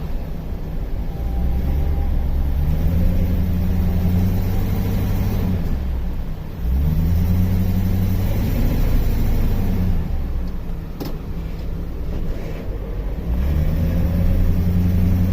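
Ford F-250's 5.4-litre V8 pulling under load: the engine note rises and holds through three pushes of acceleration, easing off in between. It has a misfire on cylinder 6 that shows under load and can be felt as rough running. A single sharp click about 11 seconds in.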